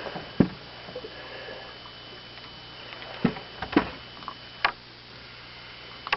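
A few scattered sharp knocks and clicks, about five in all, of a just-caught fish being handled and laid out for measuring in a small boat, over a faint steady background.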